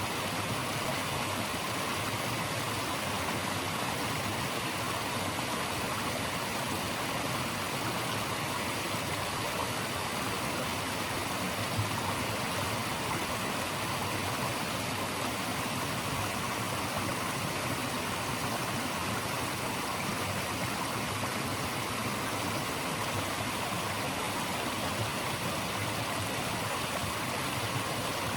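Running water rushing steadily, as of a stream or small rapids, making an even, unbroken hiss.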